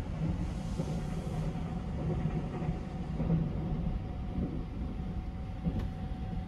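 285 series Sunrise Express electric sleeper train running, a steady low rumble of the wheels and running gear with a faint steady hum above it. A brief hiss comes about a second in, and a single sharp click comes near the end.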